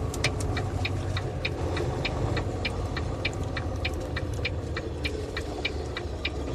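Semi truck's turn signal clicking steadily, about two and a half clicks a second, while the truck waits at a stop sign to turn. Under it, the diesel engine idles with a low, steady rumble.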